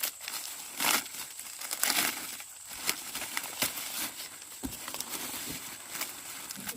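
Dry corn leaves and husks rustling and crackling as ears of corn are broken off the stalks by hand, with louder sharp snaps about one and two seconds in.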